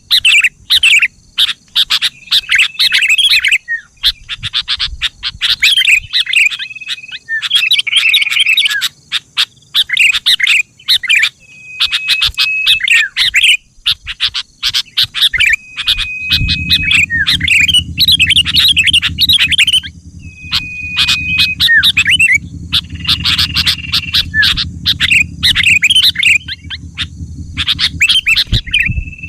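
Sooty-headed bulbul (kutilang) singing: a run of short, repeated bubbly phrases, many with a brief held whistled note, separated by short gaps. A steady low hum comes in about halfway through.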